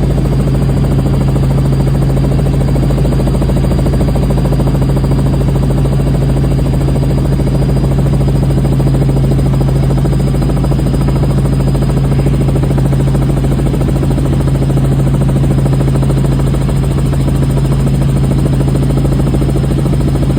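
Helicopter in flight heard from inside the cabin: a steady, loud drone with a constant low hum and a faint high whine that rises slowly.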